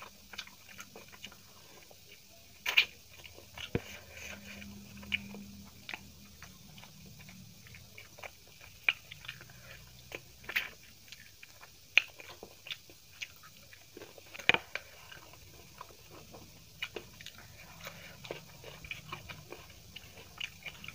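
Close-up chewing and biting of chicken biryani eaten by hand: a stream of short, wet mouth clicks and smacks, with a few much louder sharp clicks.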